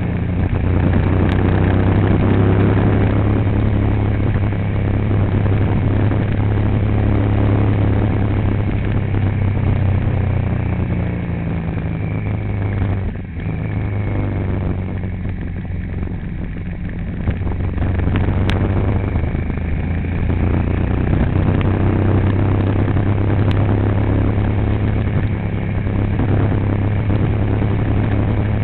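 Vehicle engine running with a steady low drone, dipping briefly about halfway through before settling back.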